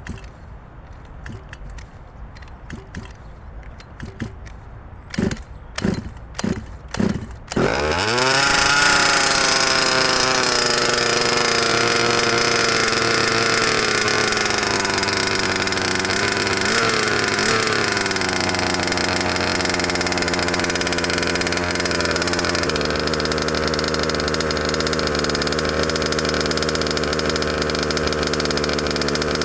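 Cold two-stroke engine cranked over about four times, catching about eight seconds in, first running fast and then settling. It keeps running steadily, its note shifting lower about two-thirds of the way in.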